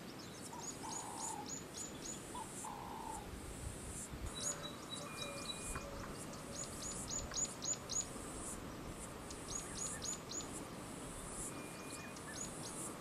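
Wild birds calling: runs of four to six quick, high, falling chirps, repeated every few seconds, over a steady high hiss.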